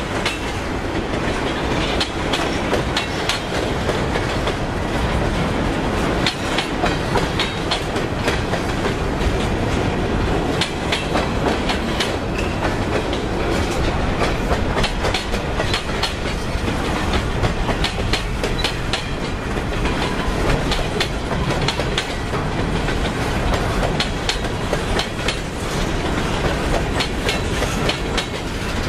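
Freight train cars rolling past at close range: a steady rumble with frequent clicking of wheels over rail joints.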